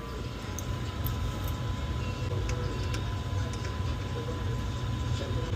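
Steady low rumble of boiler-room machinery running, with a faint steady high tone and a few light ticks.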